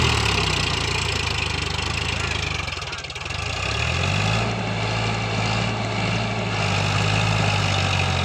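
Eicher tractor's diesel engine running. Its note drops right at the start, is lowest about three seconds in, then climbs back up and holds steady.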